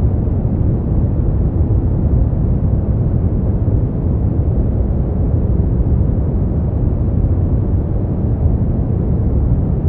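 Steady sleep-aid noise track: an unbroken, deep, muffled hiss-rumble, strongest in the bass and with no high end, more like brown noise than bright white noise.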